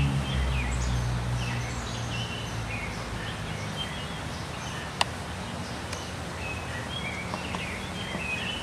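Small birds chirping over a background of outdoor noise, with a low hum fading out over the first couple of seconds. A single sharp click comes about five seconds in.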